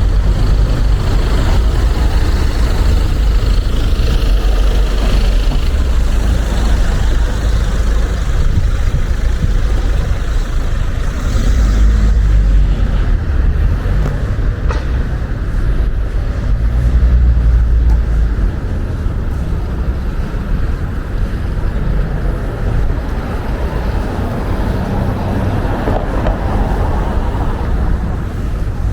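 Wind buffeting the microphone: a loud, low rumble that swells and eases in gusts, strongest in the middle.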